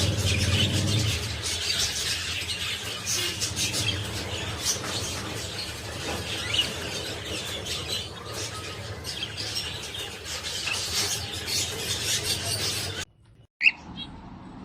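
Cockatiel chirping and squawking in quick, short calls. The sound cuts out abruptly about thirteen seconds in, then comes back with one sharp click and quieter chirps.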